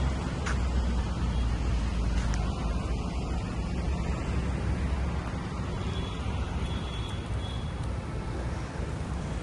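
Street traffic noise, with a low vehicle engine rumble that is strongest in the first half and then eases off.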